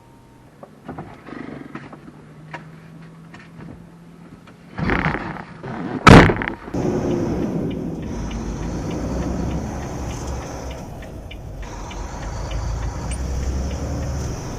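A few light clicks, a loud burst, then a sharp heavy thump like a door shutting about six seconds in, followed by the steady low rumble of the semi truck running with a constant hiss.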